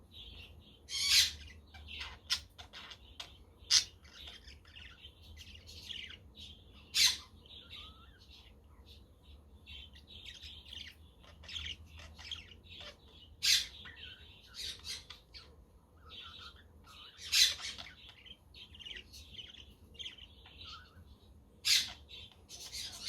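Budgerigars chirping and warbling without a break, with several loud, sharp squawks cutting through at irregular intervals.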